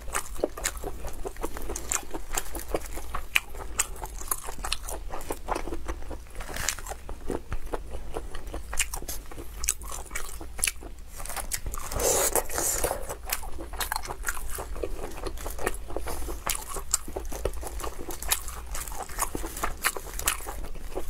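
Close-miked biting and chewing of spicy ring sausages: irregular crisp clicks and wet mouth sounds that go on without pause, busiest about halfway through.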